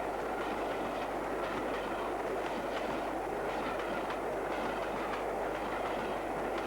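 LNER V2 class three-cylinder steam locomotive working a train on a long climb, a steady mix of exhaust and running noise.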